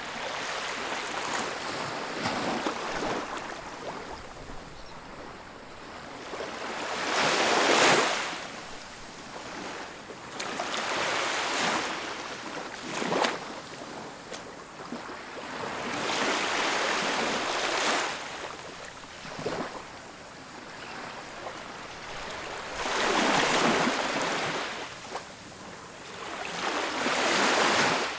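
Ocean surf breaking on a beach, each wave rushing in as a hiss that swells and fades, about every four to six seconds.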